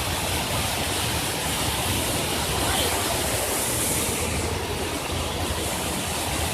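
Steady rush of running water, an even hiss with a low rumble beneath it.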